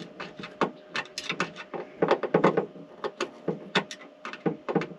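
Rapid, irregular light clicks and knocks of tools and hardware being handled and shifted about.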